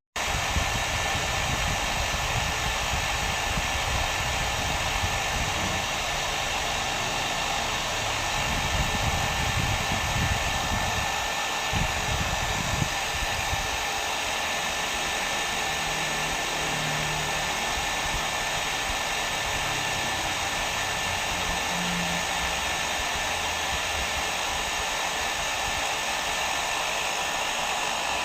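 Hair dryer running steadily: a constant airflow rush with a faint steady whine in it. It cuts out for an instant at the very start.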